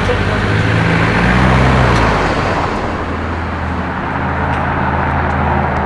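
Street traffic with a car engine running close by, its sound swelling to its loudest about a second and a half in and then easing off.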